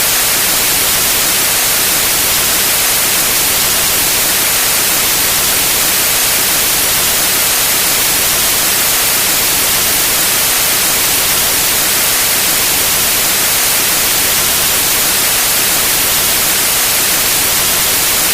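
Loud, steady white noise: an even, unchanging hiss, strongest in the high range.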